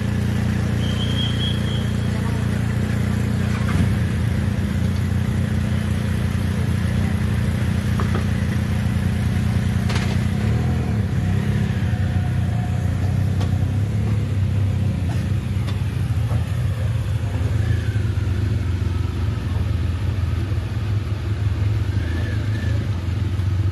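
A car engine running steadily close by, a low even hum that starts just before and holds without change.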